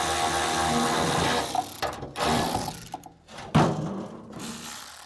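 A power tool runs steadily on a bolt, then stops about two seconds in. Short mechanical clatters follow, with one sharp knock about three and a half seconds in.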